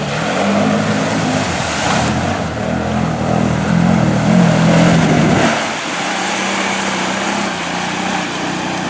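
ATV engine revving hard, its pitch rising and falling, under a hiss of water being churned up. About five and a half seconds in it eases off to a steadier, lower run.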